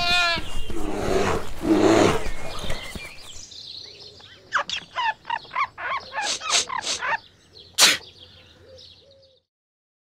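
Animated nature sound effects: a quick falling trill, then a louder, noisier stretch for the next couple of seconds, then a run of rapid bird chirps. A single sharp click comes near the end, and the sound cuts out just before the end.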